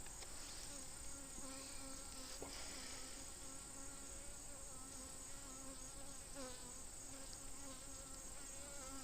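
Honeybees buzzing in a steady, faint drone around an open hive whose frames are being inspected. The colony is making more noise, which the beekeeper takes as the bees getting aggravated by the inspection.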